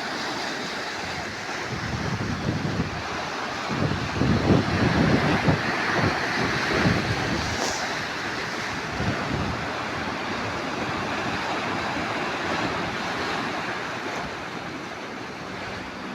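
Sea waves surging and washing, with wind buffeting the microphone, strongest from about four to seven seconds in.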